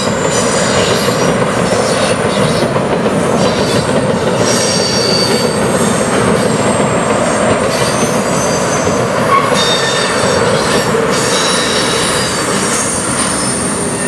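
Freight train tank cars rolling over a steel truss bridge: a steady rumble and clatter of wheels on rail, with intermittent high-pitched flange squeals from the wheels.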